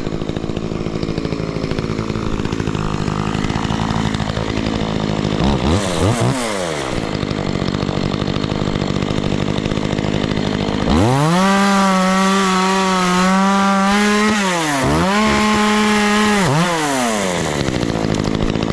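Makita chainsaw idling, blipped once about six seconds in, then held at full throttle for about six seconds from about eleven seconds in, dipping briefly once, as it cuts a log in half, before dropping back to idle.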